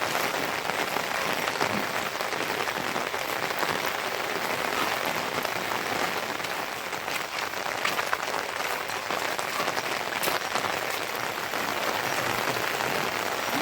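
Steady rain falling, a continuous hiss with many separate drops ticking sharply close by.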